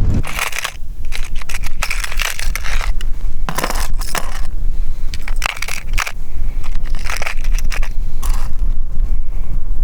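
Crunching of snow or ice: about eight short, irregularly spaced crunches, with wind rumbling on the microphone underneath.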